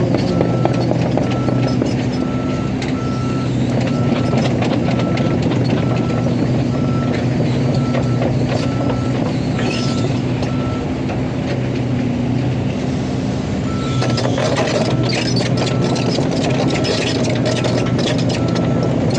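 Excavator's diesel engine running steadily while its travel alarm beeps at an even pace. The beeping stops about eleven seconds in and starts again about three seconds later. From then on it is joined by clattering and clanking.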